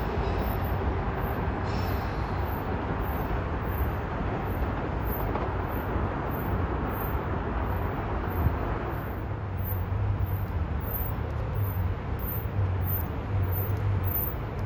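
Train running through the station: a steady rumble and rail noise that thins out about nine seconds in, leaving a low hum.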